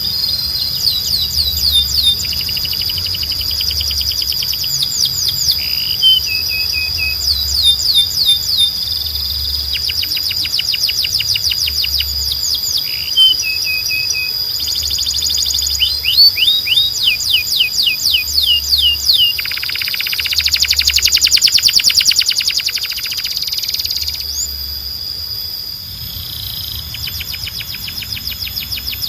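Canary singing a long song of rapid trills and quick falling notes over a steady high whistle, with a louder buzzing trill near the middle.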